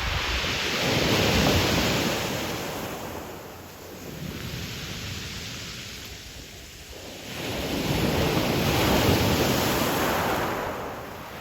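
Ocean waves breaking and washing up a pebble shore. Two surges swell and fade, one in the first few seconds and another past the middle, with a quieter lull between them.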